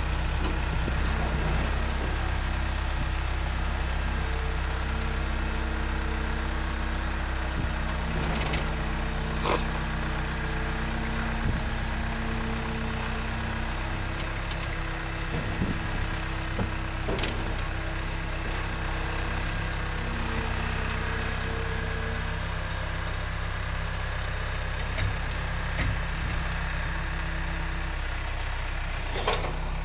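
A vehicle engine idling steadily for the whole stretch, with a few faint clicks and knocks.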